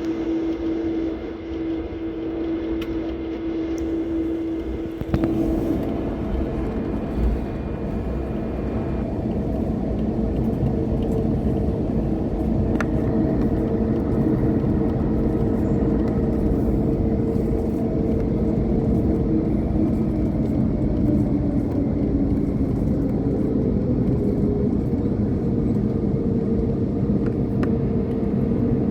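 Inside the cabin of an Airbus airliner on the ground: the steady hum and rumble of the jet's engines and cabin noise while taxiing, growing slightly louder. The hum's pitch changes about five seconds in.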